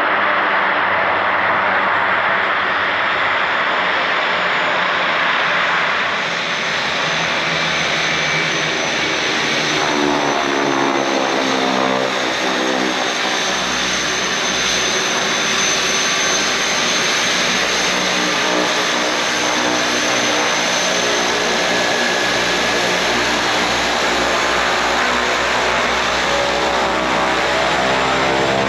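Twin Otter turboprop aircraft's engines and propellers running with a steady, loud roar. From about ten seconds in, a whine of several tones rises and falls in pitch over it.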